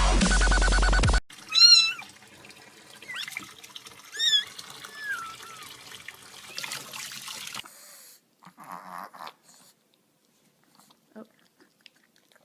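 Electronic dubstep music cuts off about a second in, followed by a cat meowing four times, the first meow the loudest, over a faint steady hiss.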